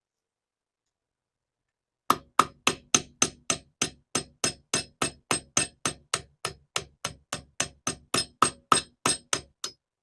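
Hammer striking metal in a steady run of about thirty even blows, roughly four a second, each with a short metallic ring. It starts about two seconds in and stops just before the end.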